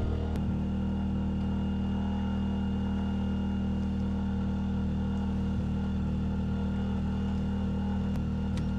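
An engine running steadily at constant speed: a continuous low hum that does not change.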